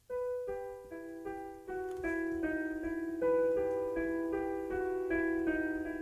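Solo piano music begins: a slow melody of sustained notes, one about every half second.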